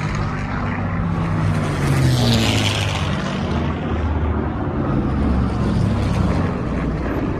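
Piston-engined warbird aircraft droning overhead: a steady low hum of engines and propellers, with a brief swell of rushing hiss about two seconds in.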